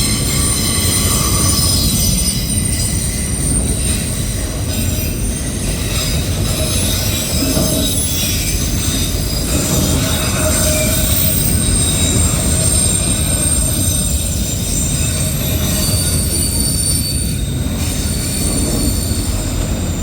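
Loaded autorack freight cars rolling past at a steady speed: a continuous low rumble of steel wheels on rail, with thin, high-pitched wheel squeals coming and going over it.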